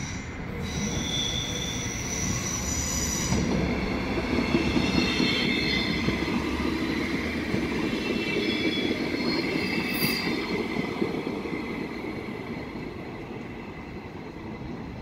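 Passenger train passing close by and pulling away, its wheels squealing on the rails in several high steady tones over the rumble of the running gear. Loudest about four to six seconds in, then fading.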